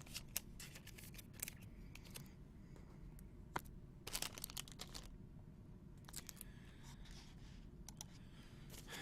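Faint handling of trading cards and their plastic packaging: scattered small clicks and taps, with a short run of crinkling, tearing rustles about four seconds in.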